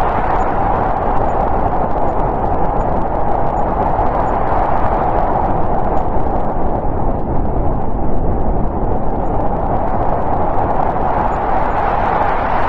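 Snowstorm wind sound effect: a steady, continuous rushing of wind, strongest in the middle range, its higher part easing a little midway.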